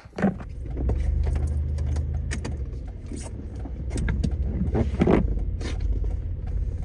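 Car running, with a steady low rumble of engine and road noise and scattered clicks and knocks.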